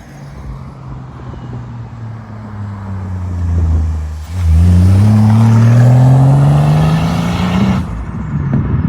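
A car engine running low and easing off as the car rolls up. About halfway through it accelerates hard, the engine note climbing steadily and loudly for about three seconds before the throttle is lifted.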